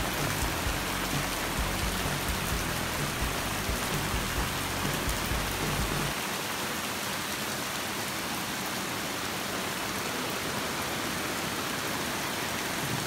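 Heavy rain falling steadily on the ground and puddles. About six seconds in, the low rumble underneath drops out and the rain goes on as an even hiss.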